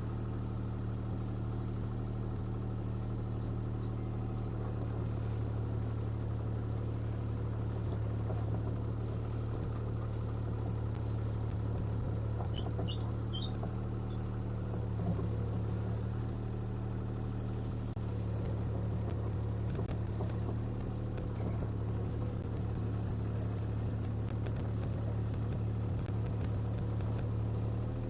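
CAT 303C CR mini excavator's diesel engine running steadily under working load, a constant low engine hum while the machine moves and carries a tree in its bucket and thumb.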